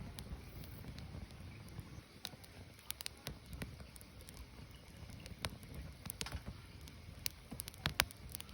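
Burning firewood crackling: irregular sharp pops and snaps over a low, steady rumble of the flames, with a few louder pops near the end.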